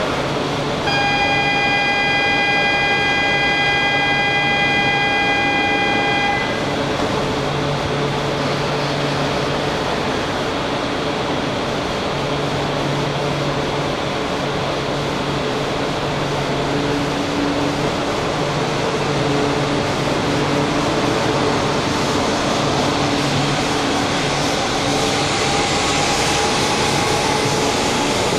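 A steady electronic departure signal sounds at the platform for about five seconds. Then the E4 series Shinkansen stands humming with a low, on-and-off drone, and near the end a rising whine starts as the train pulls out.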